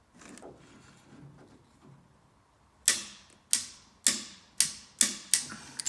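Click-type torque wrench tightening an air-cooled VW crankcase nut to 20 foot-pounds: about three seconds in, six sharp metallic clicks come roughly half a second apart.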